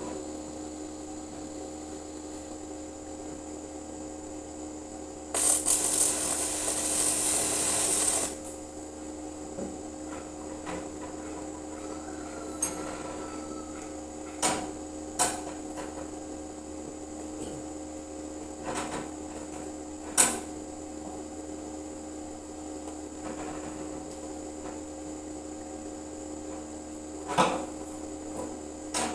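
Welding setup humming steadily, with a burst of electric arc welding crackle about three seconds long starting about five seconds in, then several separate sharp metal knocks.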